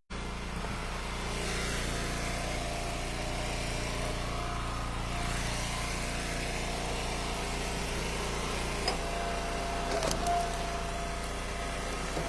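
Eastonmade Ultra wood splitter's engine running steadily while splitting ash firewood, with a higher steady whine joining about nine seconds in and a couple of short knocks around ten seconds.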